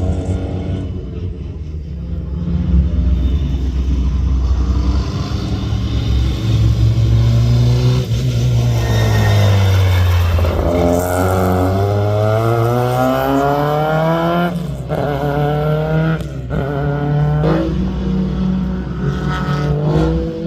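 Rally car engine under hard driving. The engine note drops to a low point about halfway through, then climbs again. Near the end it is cut by three quick breaks, like fast gear changes.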